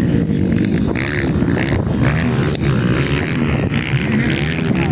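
Motocross bikes racing, their engines revving up and down in pitch over and over.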